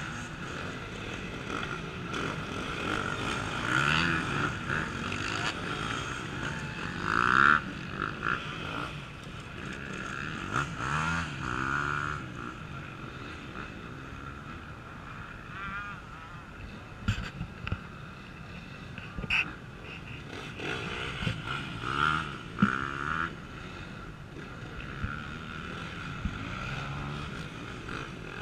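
Off-road racing motorcycles revving and blipping their throttles in bursts as they climb over a section of logs, several bikes one after another. The loudest burst comes about seven seconds in.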